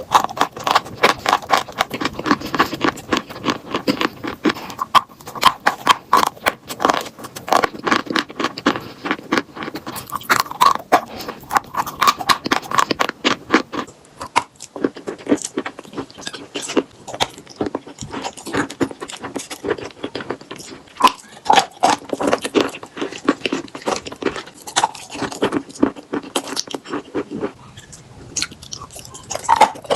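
Close-up crunching and chewing of chalk with paste: a dense run of rapid, sharp crunches that keeps going with only brief let-ups.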